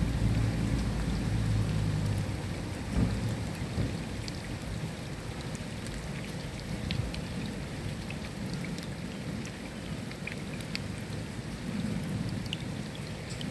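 Steady rain with scattered sharp drop ticks, and a low rumble of thunder over the first few seconds that fades away.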